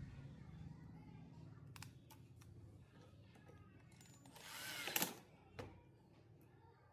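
Faint scattered clicks of small parts and tools being handled, with a short rasping noise about four and a half seconds in that ends in a sharp click, and another click just after.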